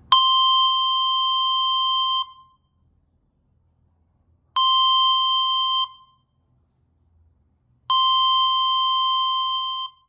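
Homemade security alarm sounding through two small loudspeakers driven by a small amplifier board: a steady, high electronic beep tone, three times, each one to two seconds long with short silences between.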